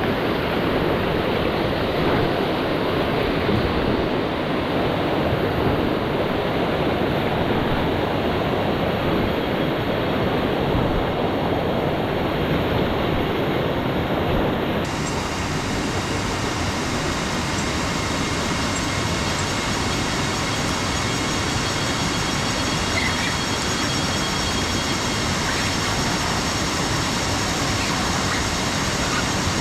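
Waterfall and fast-flowing water rushing steadily as a loud, even noise. The sound changes abruptly about halfway through, taking on more hiss.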